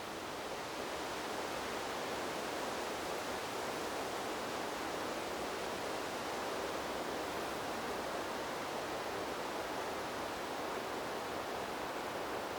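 Wind blowing through a bamboo grove: a steady, even hiss of moving leaves that grows a little louder about a second in.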